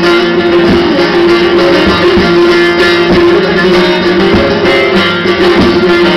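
Instrumental music on plucked string instruments, played continuously over a steady held low note, with no singing.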